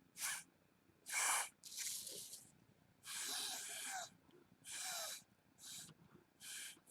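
Puffs of breath blown through a drinking straw to push wet watercolor paint across paper: about seven short, airy blowing bursts with pauses between them, the longest lasting about a second.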